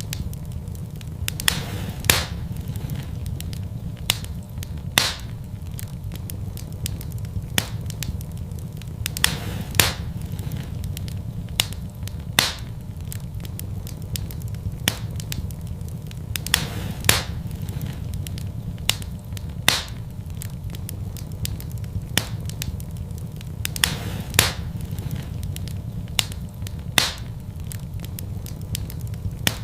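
Wood fire burning in a fireplace, crackling with sharp, irregular pops and snaps, roughly one every second or two, over a steady low rumble.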